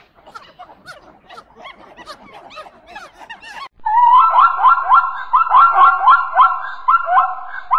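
Faint high-pitched squeaky chatter of monkeys, then about four seconds in a sudden, loud run of zebra barking calls, repeated about three times a second.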